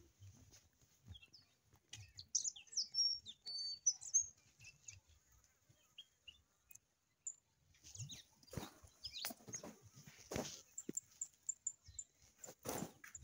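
Small birds chirping in quick, high twitters, clustered in the first half and again near the end. A few short rustling knocks come in the second half.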